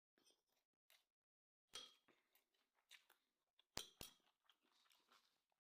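Near silence with faint clicks and rustles of eating, and two sharper clicks close together about four seconds in.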